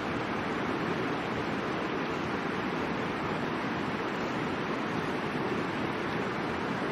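Middle Fork of the Boise River flowing: a steady, even rush of moving water.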